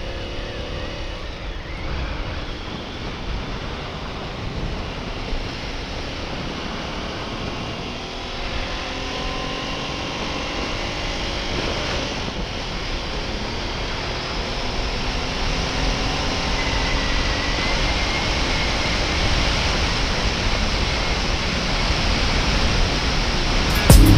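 Motorcycle on the move: the engine's drone, its pitch drifting up and down with speed, under heavy wind noise, growing gradually louder.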